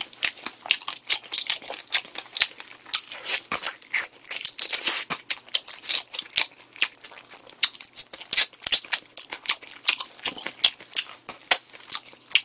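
A man chewing a sauced fried chicken drumstick: a dense, irregular run of sharp mouth smacks and crunches, several a second.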